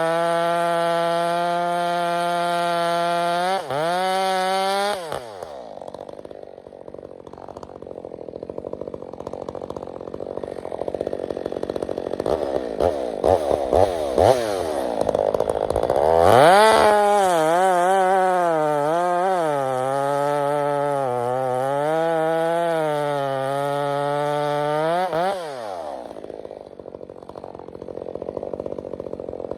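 Stihl 462 chainsaw fitted with an Egan Straight Shot exhaust, running wide open with a steady high note, then letting off about five seconds in, the pitch falling away. After a rougher, quieter stretch it revs up sharply near the middle and runs hard with its pitch rising and falling, then drops off again near the end.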